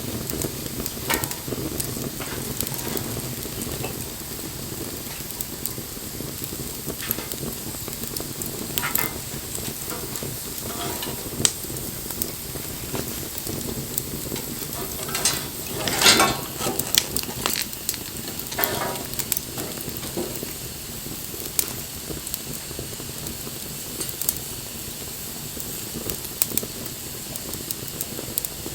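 Wood fire burning, crackling with scattered sharp pops over a steady hiss. About halfway through there is a louder hissing flare lasting a second or two.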